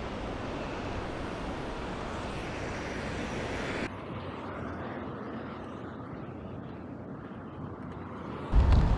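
Steady rush of wind noise on the microphone while riding a bicycle, with no speech. About four seconds in the sound abruptly turns duller and a little quieter. Near the end a loud low wind rumble buffets the microphone.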